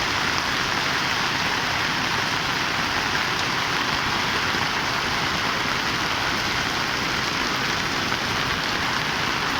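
Heavy rain pouring down and drumming on surfaces in a steady, even hiss.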